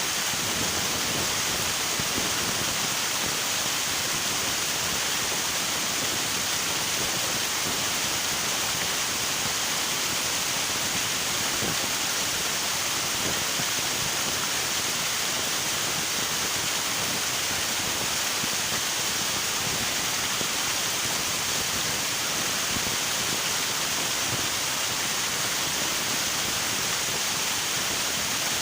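River water rushing steadily over rocks: an even, unbroken hiss of flowing water.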